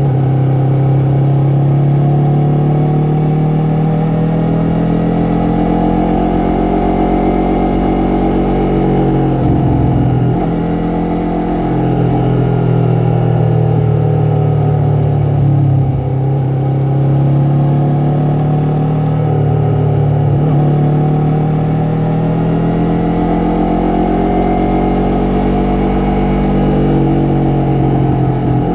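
Yamaha MT-03 motorcycle's 321 cc parallel-twin engine and exhaust under way, the engine note rising and falling steadily with the throttle and dropping sharply three times as the rider shifts or rolls off.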